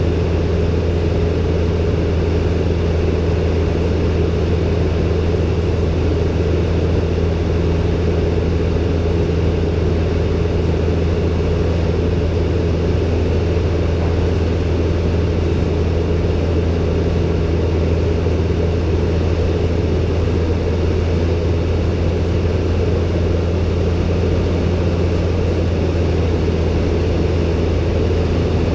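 Robin DR400-120 light aircraft's four-cylinder Lycoming engine and propeller droning steadily at constant power, heard from inside the cockpit.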